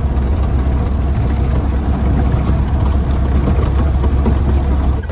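Motor vehicle driving, a steady low engine rumble with road noise.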